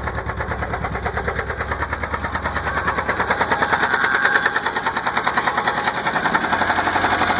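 1996 Saturn SC2's 1.9-litre twin-cam four-cylinder engine running with a rapid, steady knock, which the owner guesses is a spun rod bearing.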